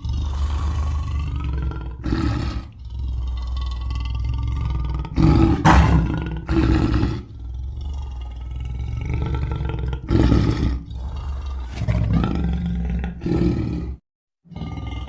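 Deep, drawn-out monster roars and groans in the voice of Mongo, the giant gingerbread man, over a steady low rumble. Several louder roars come through the middle, and the sound cuts out briefly near the end.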